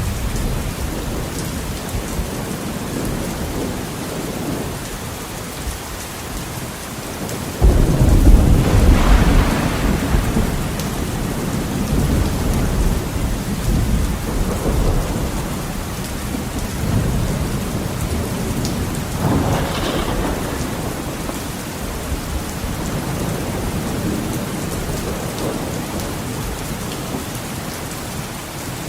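Heavy rain pattering steadily on a window, with rolling thunder: a loud crack and deep rumble about a third of the way in that fades over several seconds, and another, quieter roll a little past the middle.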